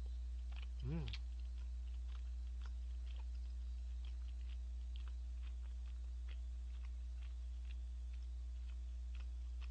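A man chewing tteokbokki rice cakes with small wet mouth clicks, with one short hummed sound about a second in. A steady low electrical hum runs underneath.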